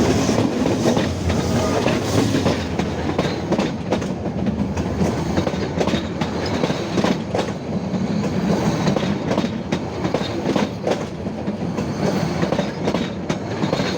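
A passenger train running on the rails, heard close from beneath: a steady rumble with repeated sharp clacks of the wheels over the rail joints.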